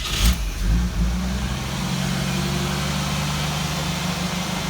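Jeep CJ7's 4.2-litre inline-six catching as it is started, flaring briefly in the first second, then settling into a steady idle.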